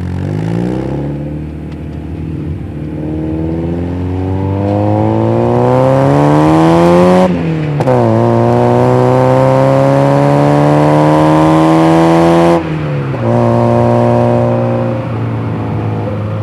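Mazda MX-5 NA's 90 hp 1.6-litre twin-cam four-cylinder engine, on its stock exhaust, accelerating through the gears. The revs climb for several seconds and drop sharply at an upshift about seven seconds in. They climb again more slowly and drop at a second upshift near twelve seconds, then run fairly steady.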